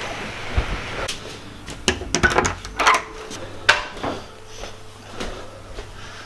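Kitchen clatter: scattered clinks and knocks of pans, utensils and cupboards during cooking, over a faint steady hum.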